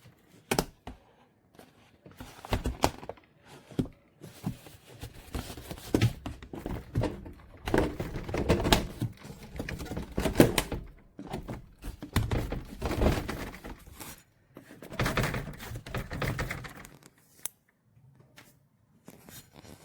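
Irregular knocks, clicks and crinkling rustles of objects being handled close to the microphone, in clusters with short gaps, dying away near the end.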